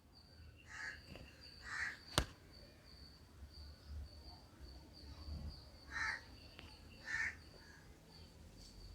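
Faint bird calls in the background: four short calls, two about a second apart near the start and two more about six and seven seconds in, over a faint steady high tone, with a single sharp click a little after two seconds.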